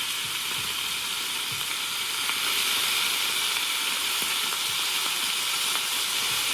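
Bacon frying in a pan: a steady sizzle with light crackling.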